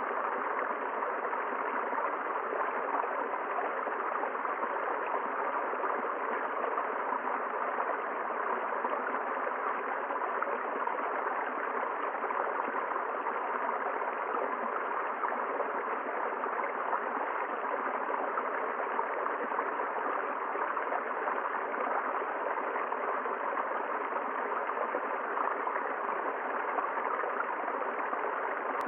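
A river's water running steadily over its bed in a continuous, even rush.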